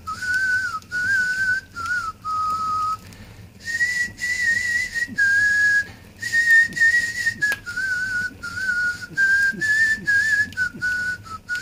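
A person whistling a tune: a string of short and held notes that step up and down, with a few brief pauses between phrases.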